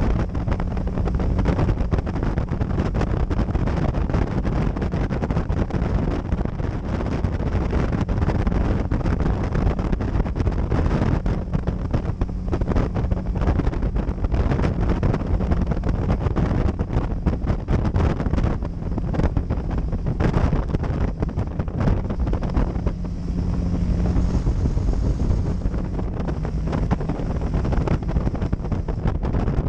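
Motorcycle engine running steadily at road speed, heavily overlaid by wind buffeting the action camera's microphone.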